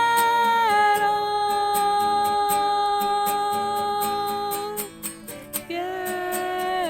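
A singer holds one long note of a love song for about five seconds, slipping down a step just under a second in, then starts a second held note near the end, over acoustic guitar strumming.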